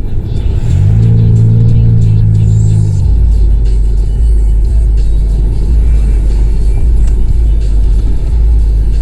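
Honda CR-V exhaust with the resonator and muffler removed: the engine is held at a steady raised rev for about two seconds, then drops into a deep, steady low drone.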